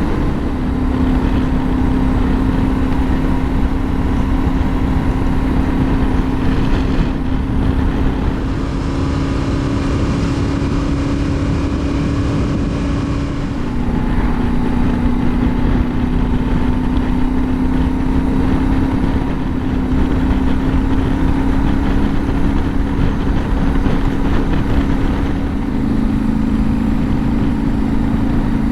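Yamaha Ténéré 700's parallel-twin engine running under load on a climbing ride, with wind and road noise. The engine note dips about halfway through, rises again, and steps up near the end.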